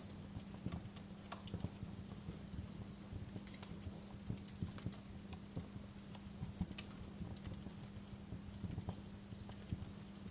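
Wood fire crackling in a fireplace: irregular snaps and pops over a steady low hum.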